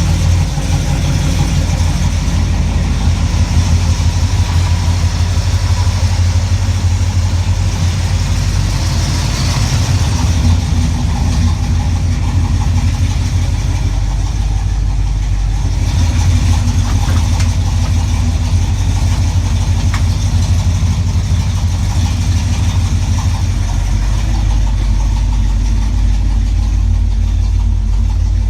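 Car engine idling steadily with a deep low rumble, on its first startup with a 700R4 automatic transmission.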